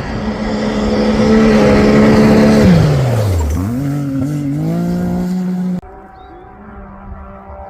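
Rally-raid competition engine at high, steady revs, loudest about two and a half seconds in. The revs then drop sharply as it lifts off, and climb again as it accelerates away. The sound cuts off abruptly near six seconds in, leaving a quieter steady engine note.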